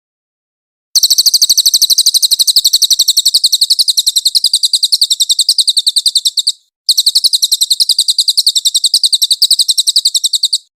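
Cililin songbird singing a long, rapid trill of sharp, high notes, about ten a second, in the fast 'nembak' burst style used for masteran recordings. The trill starts about a second in, breaks off briefly about two-thirds of the way through, resumes, and stops just before the end.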